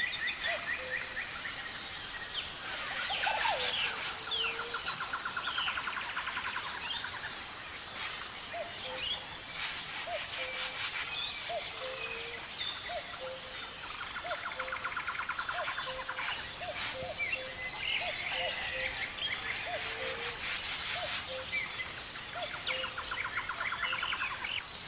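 Forest ambience: many birds chirping and calling over a steady high insect drone, with rapid trills now and then and a short low note repeating a bit faster than once a second through the middle.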